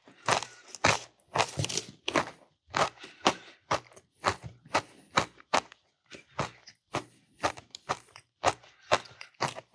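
Close-miked chewing: a person eating, with a quick run of crunchy, smacking mouth sounds about two to three a second.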